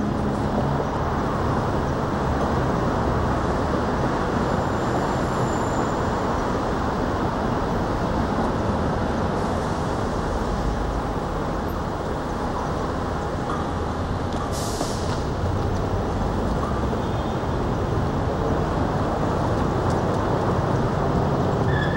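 Steady road and engine noise of a moving vehicle, an even rumble with no clear changes.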